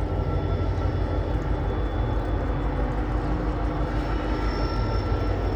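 A WDP4G diesel locomotive's engine running with a steady low throb.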